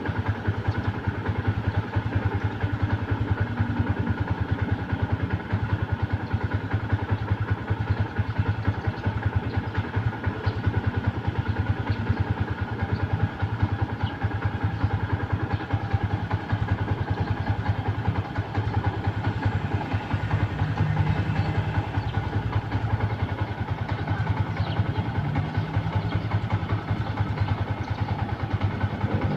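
Stock Yamaha Sniper motorcycle's single-cylinder engine running steadily on its stock exhaust, with an even, rapid firing beat.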